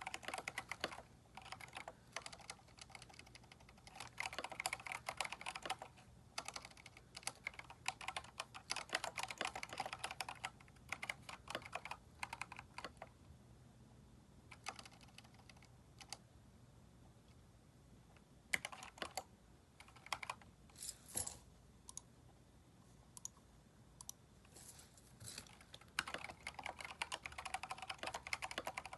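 Typing on a Keychron K4 mechanical keyboard fitted with replacement keycaps. Fast runs of keystrokes give way about halfway through to a pause of several seconds with only a few scattered key presses, and fast typing starts again near the end.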